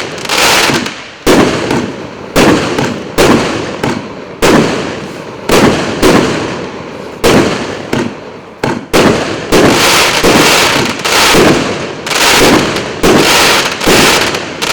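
A 49-shot, 1.2-inch firework cake firing shot after shot, about one a second and sometimes in quick pairs. Each is a sudden loud bang that trails off before the next.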